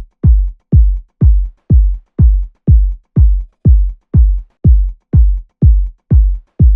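Electronic kick drum soloed through the low band, a steady four-on-the-floor beat of about two hits a second, each a short deep thump that drops quickly in pitch. The drum bus has been phase-adjusted so the kick hits with a consistent weight.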